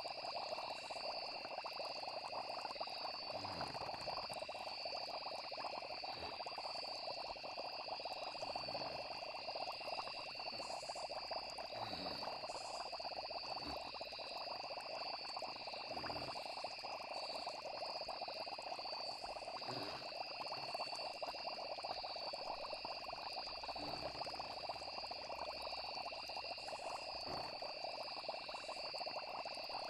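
Night nature ambience: a continuous chorus of frogs with steady high trilling of insects, and a short deeper sound every few seconds.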